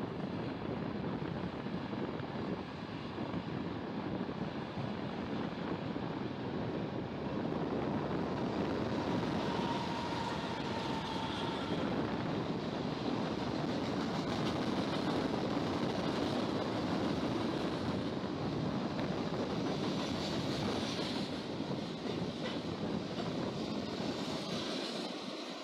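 Freight train passing: a diesel-hauled string of freight cars and covered hoppers rolling along the rails with a steady rumble, growing louder over the first several seconds as the head end comes by.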